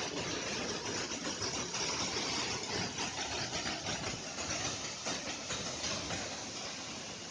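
Waterfall: a steady rushing roar of falling water.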